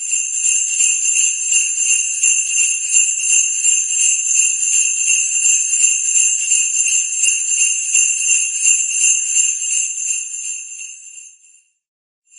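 Jingle bells shaking in a continuous shimmering jingle, a holiday sound effect, fading away about eleven seconds in before starting up again at the very end.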